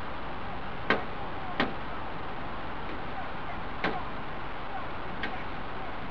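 Steady noise of a moving vehicle, as a dashcam picks it up, with four short sharp clicks spread unevenly across it.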